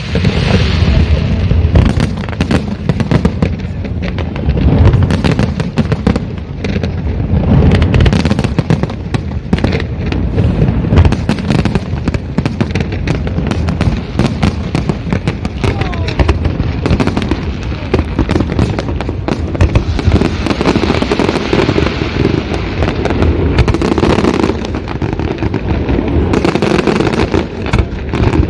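Fireworks display going off in a dense, continuous barrage: rapid overlapping bangs and crackles with a low rumble of shell bursts underneath.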